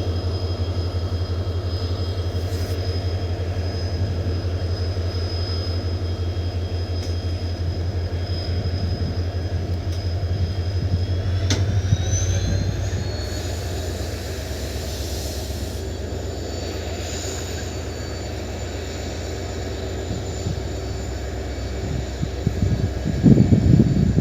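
Diesel locomotive engine running with a steady low rumble and a high turbocharger-like whine; about halfway through the whine rises in pitch and holds there as the engine revs up. A louder, rough noise starts near the end.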